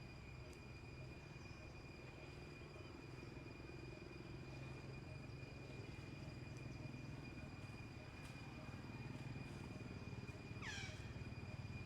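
Faint outdoor ambience: a steady low rumble under a steady high-pitched tone, with one short sweeping call near the end.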